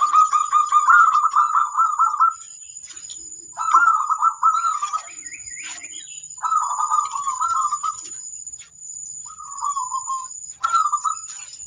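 Zebra dove (perkutut) cooing: about five phrases of rapid, trilled coos with short pauses between them, the first lasting about two seconds. A thin, steady high-pitched tone runs behind them.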